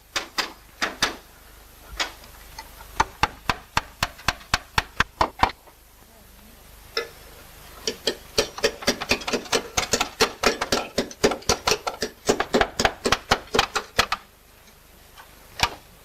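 Hammer striking slate in quick runs of sharp taps, several a second, as when trimming slate edges to shape. The taps break off about six seconds in and again near the end.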